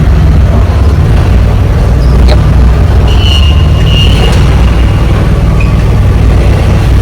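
Semi truck's diesel engine running under load, a steady low drone with a haze of road and wind noise over it.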